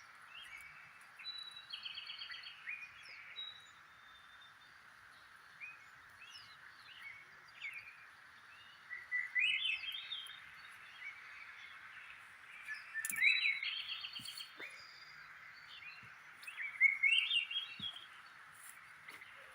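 Wild birds calling in quick runs of short rising chirps, loudest in three bouts about 9, 13 and 17 seconds in, over a steady hiss of swamp background noise.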